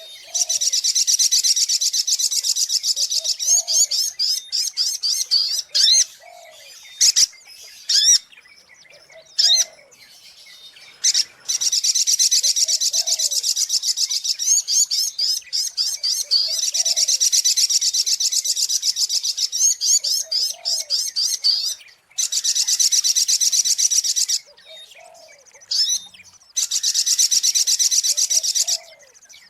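Sogok ontong (spiderhunter) lure call: long, fast trains of high, evenly repeated notes lasting several seconds each, broken by short pauses filled with single sharp chirps. A fainter lower note recurs about every second and a half underneath.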